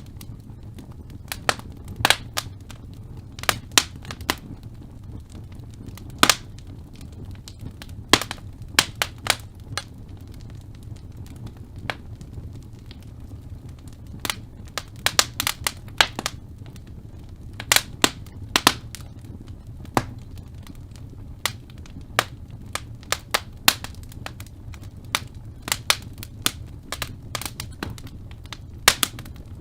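Wood fire crackling in a fireplace: irregular sharp pops and snaps from the burning logs, some in quick clusters, over a steady low rumble of the flames.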